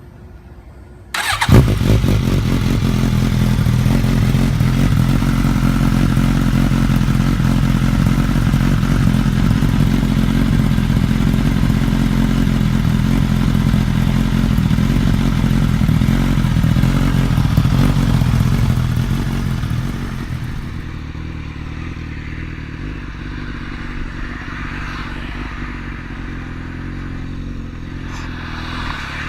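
Motorcycle engine coming in abruptly about a second in and running at a steady idle. Around twenty seconds in it drops to a lower, quieter idle.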